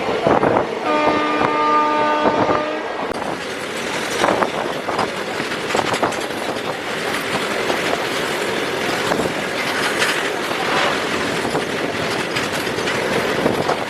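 A train horn sounds one steady blast of about two seconds near the start. It is followed by the continuous rumble and wheel clatter of a moving Indian Railways passenger train.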